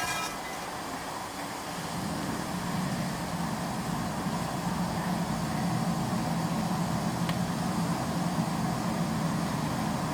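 Air blower forcing a draught into a bin fire: a steady low hum over a rush of air, growing louder about a second and a half in and then holding steady.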